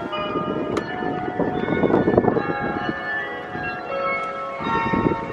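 Church bells ringing, with many strokes at different pitches overlapping and dying away slowly, over a steady rushing background noise.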